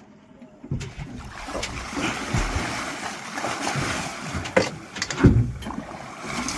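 Water splashing hard as a large harpooned halibut thrashes at the surface beside the boat, with several heavy thumps, the loudest about five seconds in.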